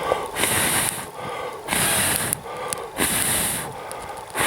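Slow footsteps crunching in snow, three crunches about a second and a half apart.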